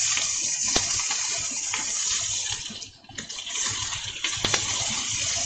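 Meat sizzling in plenty of oil in a cast-iron skillet, a steady frying hiss, with a few sharp clicks of chopsticks against the pan as the pieces are turned. The sizzle drops away for a moment about halfway through, then comes back.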